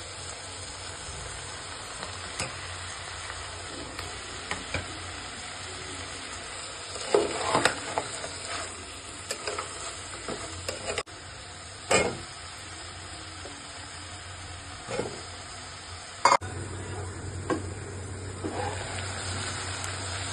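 Mutton and spices sizzling in oil in an aluminium pot while a spatula stirs and scrapes the pot. Several sharp scrapes and knocks stand out, the loudest about 7, 12 and 16 seconds in.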